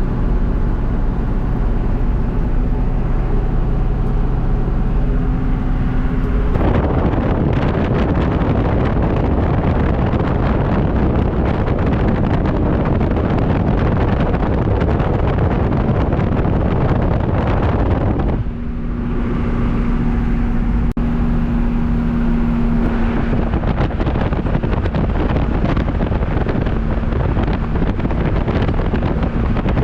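A 1982 C30 square-body truck's naturally aspirated 6.2 L diesel V8 runs on the move, with road and wind noise. About six seconds in, the noise swells loud and drowns the engine's hum. It eases briefly around eighteen seconds, leaving a steady engine tone, then builds again.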